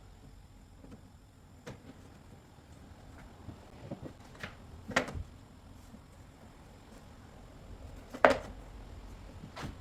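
A few separate knocks and taps from hands and tools working on a leaded stained glass panel on a workbench, the loudest about eight seconds in.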